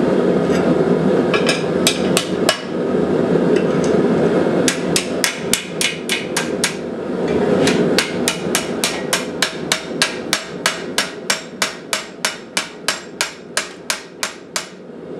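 Hand hammer striking hot steel on an anvil, bending a quarter-inch rod into a tight wrap: a few blows at first, then a steady run of about three blows a second. A steady roar, the forge's burner, runs underneath.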